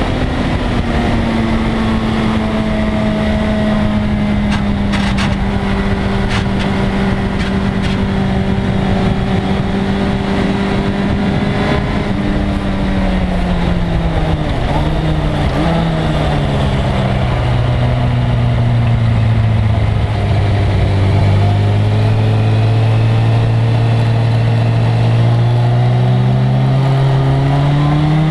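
1997 Suzuki GSX-R1100's inline-four engine at speed over a steady rushing noise. It holds steady revs, then the revs fall with a few quick jumps as the bike slows, and they climb slowly again near the end.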